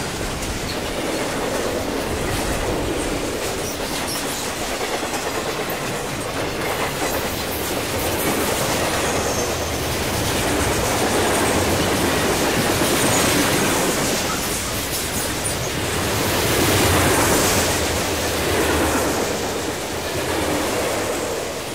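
Moving train, its wheels clattering over the rail joints in a steady rumble that swells louder a few times, with faint high wheel squeals now and then.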